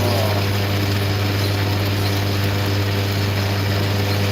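A machine running steadily with a constant low hum and a few steady tones over an even rushing noise.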